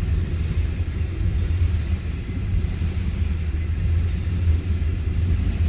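Long freight train rolling past a level crossing: an even, steady rumble of the cars on the rails.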